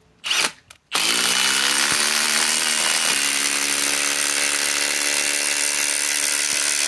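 Milwaukee M18 Fuel Gen 4 impact driver driving a 10-inch TimberLOK structural screw: a short trigger blip, then continuous hammering under load from about a second in. Its pitch rises slightly over the first couple of seconds, then holds steady.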